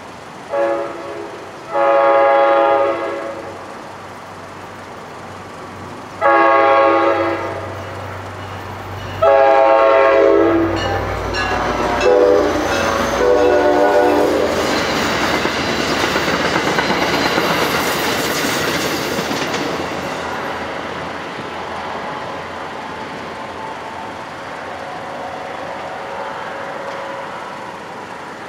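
NJ Transit passenger train's horn sounding a series of blasts for the grade crossing: a short one, three long ones, then two shorter ones. The train then passes over the crossing with its wheels clattering over the rail joints, and the sound slowly fades as it moves away.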